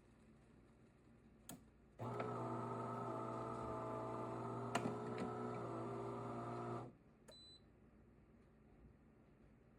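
De'Longhi Dinamica Plus automatic espresso machine running, a steady hum that starts about two seconds in and stops suddenly about five seconds later, with a click before it and another click just after it stops.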